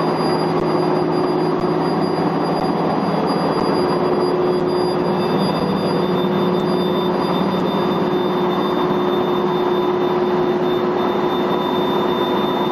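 T2180X8 deep hole drilling and boring machine running: a loud, even machine noise with steady whining tones over it.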